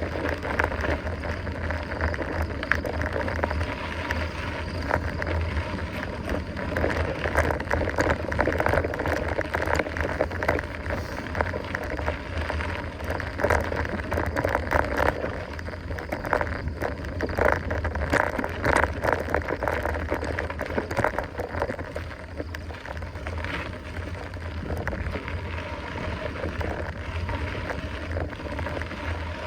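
Mountain bike rolling over a rough dirt trail: continuous tyre noise with frequent clattering rattles from the bike, and wind rumbling on the microphone.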